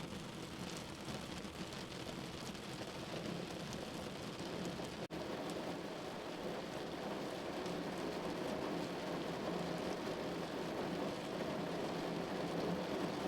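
Steady rain falling, an even hiss flecked with the ticks of individual drops striking. The sound cuts out for an instant about five seconds in and grows slightly louder towards the end.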